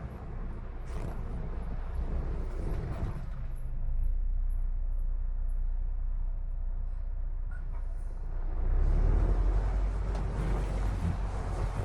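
Heavy timber truck's diesel engine running with a steady low drone, growing louder about nine seconds in.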